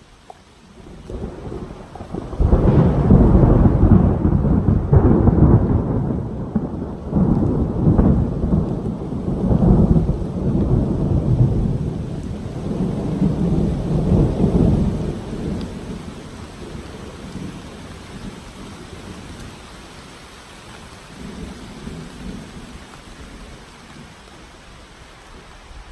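A loud clap of thunder breaks about two and a half seconds in and rolls on in several deep rumbles for some twelve seconds, then fades away under the steady hiss of rain.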